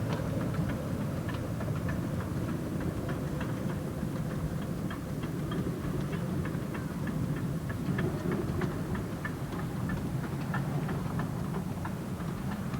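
Narrow-gauge heritage train running: a steady low rumble with a fast, regular clicking, about three clicks a second.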